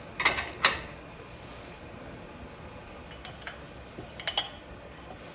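A few sharp clicks and knocks of objects being handled, two close together near the start and a small cluster about four seconds in, over a steady low hiss.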